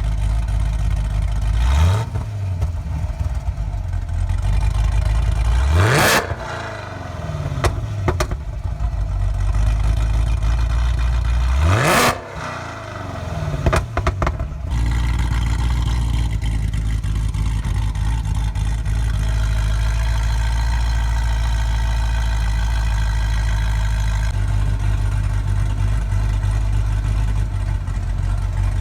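Supercharged 6.2-litre LSA V8 of a Chevy SS through long-tube headers, a resonator-deleted X-pipe and bimodal mufflers: the engine revs up sharply three times, each rev dropping back, then runs at a steady drone.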